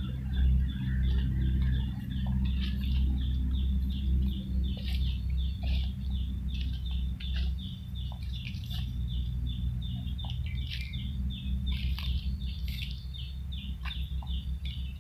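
Birds chirping in quick, repeated high notes, over a loud low rumble that is strongest in the first few seconds.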